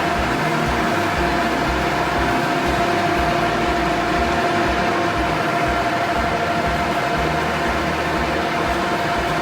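A machine running steadily, a constant hum with a held high whine over it.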